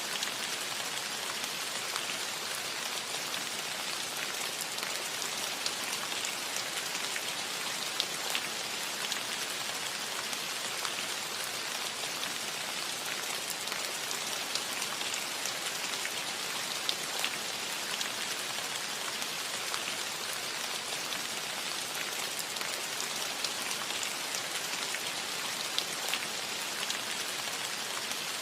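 Steady light rain falling on a metal roof: an even hiss scattered with many small sharp drop ticks.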